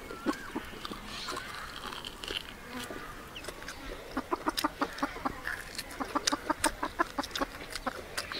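Close-up chewing and lip-smacking as meat is gnawed off a spare rib, with quick wet clicks several a second from about four seconds in.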